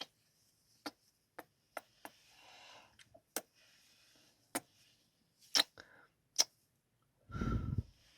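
Close-miked ASMR kissing and lip smacks: a series of about nine sharp, separate smacks with soft breaths between them, then a longer, louder breathy sound about seven seconds in.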